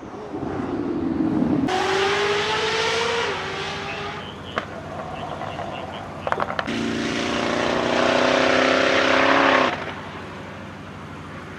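Koenigsegg Jesko's twin-turbo V8 accelerating hard in two loud runs. In the first, the pitch rises and then drops at a gear change about three seconds in. The second runs at a steady pitch and cuts off abruptly, with a few sharp pops in the quieter stretch between the runs.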